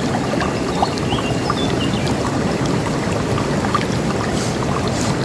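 River water rushing steadily, with a few short bird chirps over it.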